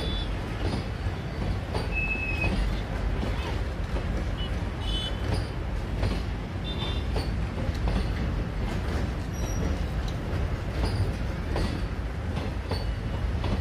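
Passenger train coaches rolling past at close range: a steady rumble with the clatter of wheels on the rails, and brief high squeaks now and then.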